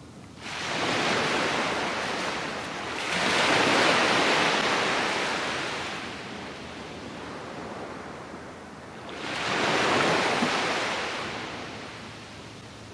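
Sea waves breaking and washing up a sandy beach in three successive surges, the loudest around four seconds in. Each surge swells and then fades back to a low hiss.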